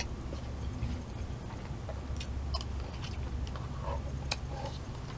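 A person chewing a mouthful of instant bulgogi udon soup close to the microphone: scattered wet clicks and smacks, a few seconds apart, over a steady low hum.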